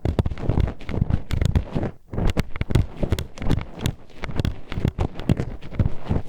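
Metal hairpin poked and scraped inside a binaural microphone's ear: close, rapid, irregular clicks and rubbing scrapes, several a second, each with a deep thump.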